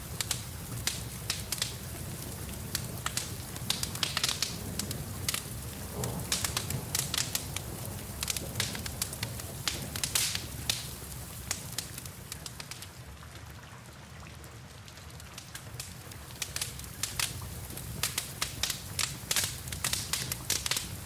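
Wood fire crackling in a fireplace with frequent sharp pops, over a steady background of rain. The pops thin out and the sound drops a little for a few seconds around the middle, then pick up again.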